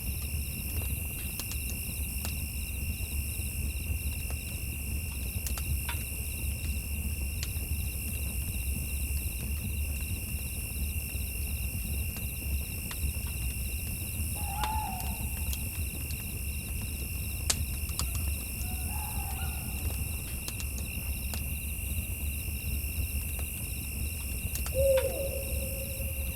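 An owl hooting three times in the second half, short calls a few seconds apart, the last one the loudest. Behind it runs a steady high-pitched drone and a low rumble, with a few faint clicks.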